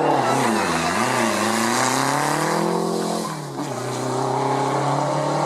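Rally car engine working hard on a stage, its pitch swinging up and down quickly, then climbing steadily as it accelerates. About three and a half seconds in there is a short drop, like a lift or a gear change, and then the engine runs steadily at high revs.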